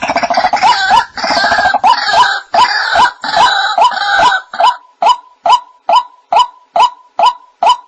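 White-breasted waterhen calling: a sharp note repeated about twice a second. For the first half a harsher, rasping calling overlaps the notes, then the single notes go on alone and evenly.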